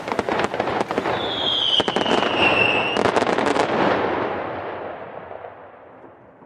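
A fireworks display, with rapid crackling and popping bursts and a high whistle that slides slightly down in pitch for about two seconds. The crackle dies away over the last couple of seconds.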